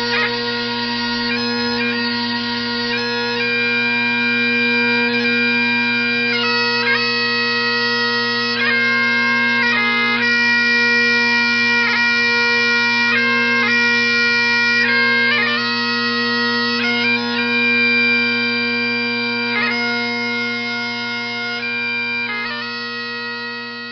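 Bagpipes playing a slow tune: a melody moving from one held note to the next over steady drones. The music fades out near the end.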